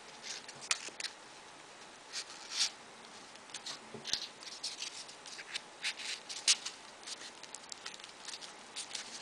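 Folded paper origami units rustling and clicking irregularly as they are handled and pushed into place on a modular origami model.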